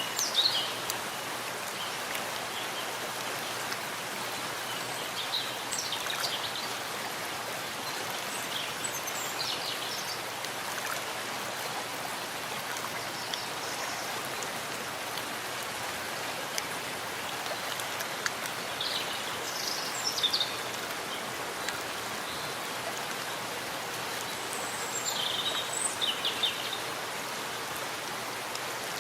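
Steady rain falling in a forest, with birds chirping briefly now and then.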